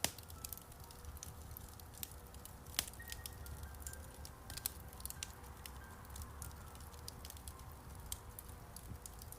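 Wood fire crackling in a fireplace: frequent sharp pops and snaps, the loudest right at the start and about three and four and a half seconds in, over a low steady rumble. Soft, slow piano notes sound quietly underneath.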